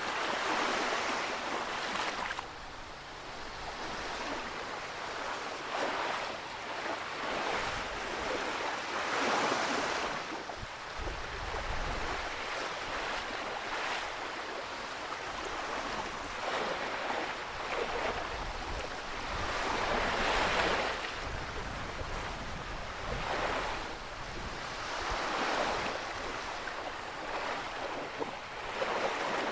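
Atlantic Ocean waves breaking and washing ashore, the surf swelling and falling every few seconds, with some wind buffeting the microphone.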